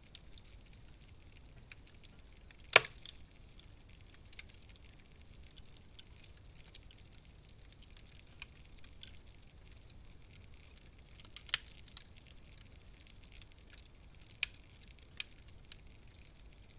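Wood fire in a fireplace crackling: scattered sharp pops and snaps of uneven strength over a faint steady hiss, the loudest pop coming about three seconds in.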